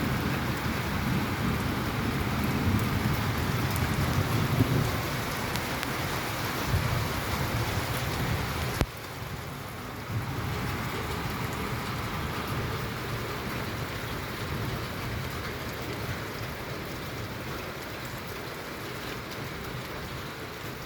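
Steady rain falling, with a deep low rumble under it for the first half. The whole sound drops abruptly in level a little before halfway and then carries on more quietly.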